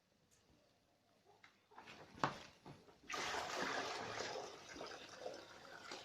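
Water pouring and splashing, starting about three seconds in and slowly tapering off, after a single knock about two seconds in.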